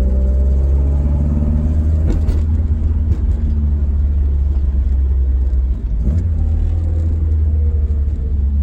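Ford Escort Mk1's engine running under way, heard from inside the cabin over a heavy low road rumble, with a brief dip in level about six seconds in. The engine is running on a newly fitted Nodiz Gen X ECU, which replaced one that was causing misfires.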